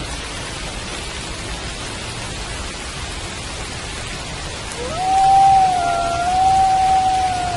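Steady rain falling, and about five seconds in a wolf starts a long howl that rises quickly and then holds one steady note, still going at the end, with a fainter higher note joining it briefly.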